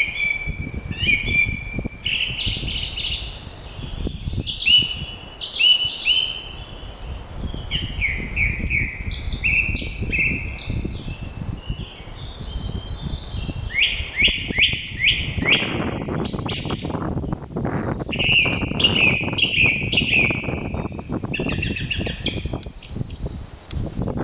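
Spring songbirds singing in short, quick phrases one after another, including a fast run of down-slurred notes, over a steady low rush of wind.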